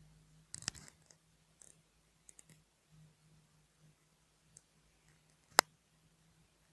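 Scattered light clicks and taps, a quick cluster of them early and one sharp, much louder click about five and a half seconds in.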